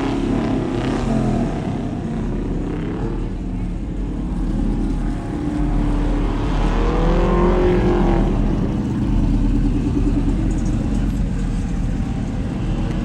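Lifted truck engines running at a truck show, one revving up and back down about seven seconds in.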